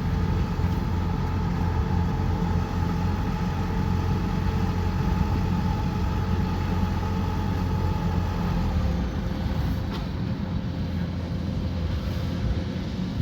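Kubota combine harvester running steadily, a low engine drone with a machinery whine over it. It gets a little quieter about nine seconds in.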